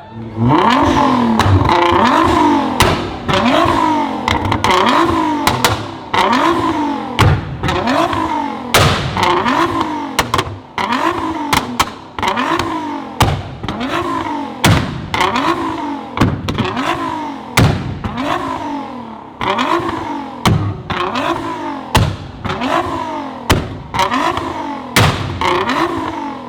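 Tuned sports car engine revved hard over and over, about once a second, each rev rising and falling back. Sharp pops and bangs from the exhaust crack between the revs.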